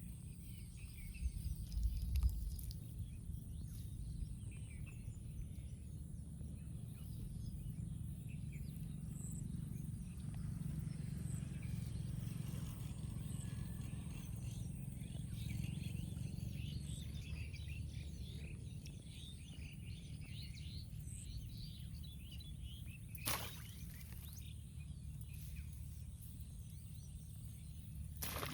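Outdoor rural ambience: a steady low rumble with faint scattered bird chirps, a couple of low thumps about a second in, and a single sharp click near the end.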